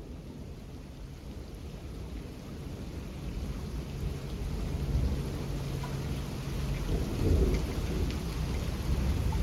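Thunderstorm: rain falling steadily while low thunder rumbles and builds, growing loudest about seven seconds in.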